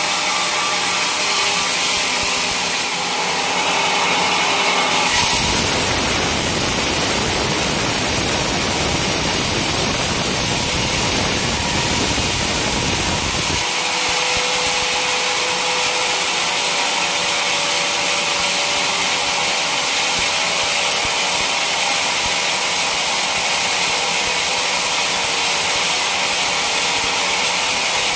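Sawmill saw cutting through a teak log: a loud, steady sawing noise. A deeper rumble joins about five seconds in and drops out near the middle.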